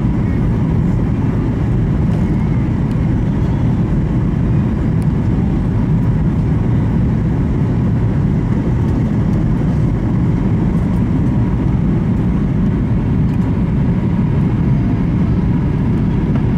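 Steady low rumble of engine and airflow noise inside the cabin of a Boeing 737 MAX 8 airliner, holding even throughout with no bumps or changes.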